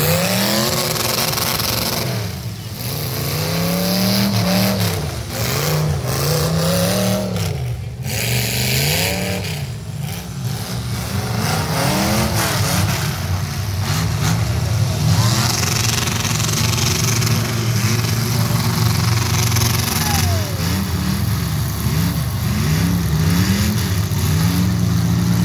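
Several demolition derby cars' engines revving up and dropping back again and again, overlapping one another.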